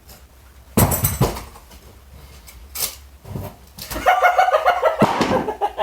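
A sharp knock or clatter about a second in, then a cat meowing for the last couple of seconds.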